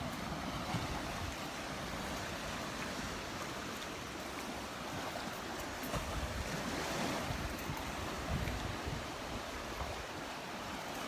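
Surf washing on a Gulf of Mexico beach, a steady wash of breaking waves that swells about halfway through, with some wind buffeting the microphone.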